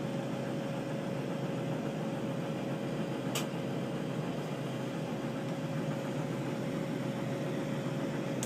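Steady rushing noise of a glassworking torch flame with a constant hum, as cremation ashes are being worked into a molten glass bead. A single short tick comes about three seconds in.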